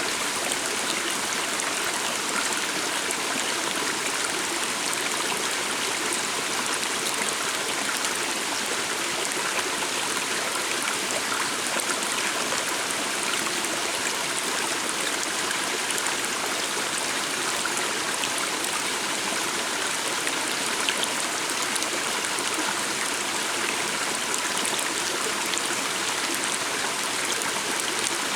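A stream of water flowing steadily, an even rushing hiss with no change in level.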